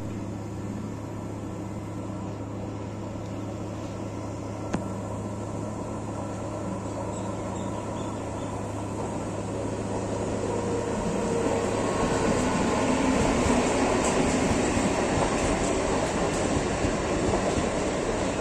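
MEMU electric multiple-unit train arriving at a station, its wheel-and-rail rumble growing louder from about ten seconds in as the coaches roll past. A steady low hum runs under the first half.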